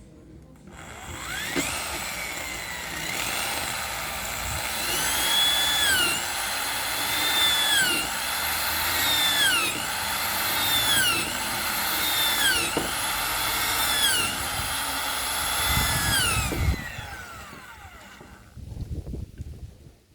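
Electric drill motor spinning up, its pitch dipping about once a second as it bogs under load, then winding down.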